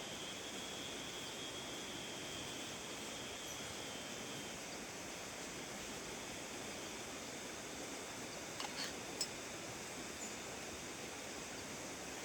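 Steady rainfall, an even hiss. A faint high thin tone sounds over it at first and fades out about four seconds in, and a few small clicks come about two-thirds of the way through.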